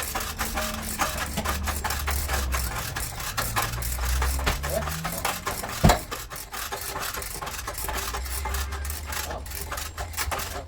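Scraping and rubbing on a car body panel, with many small clicks and one sharp knock about six seconds in.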